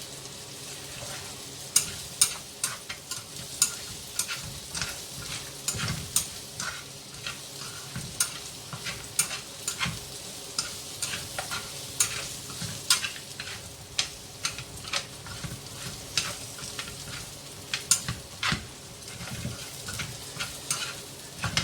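Duck pieces and garlic sizzling in hot oil in a pan, with frequent sharp, irregular clicks and scrapes of a utensil stirring against the pan.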